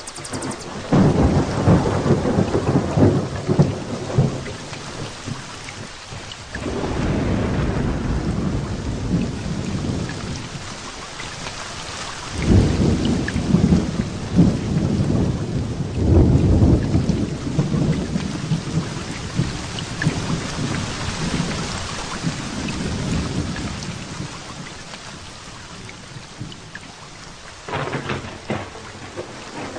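Heavy rain falling steadily through a thunderstorm, with thunder rumbling in four long rolls: about a second in, about a quarter of the way through, a long one around the middle, and a short one near the end.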